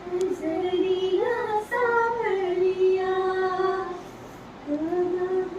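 A child's voice singing in long, sliding held notes, breaking off briefly about four seconds in and starting again.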